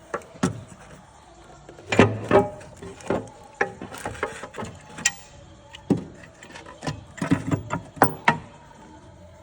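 Irregular clinks and knocks of hand tools and metal engine parts being handled, coming in clusters about two seconds in and again around seven to eight seconds in.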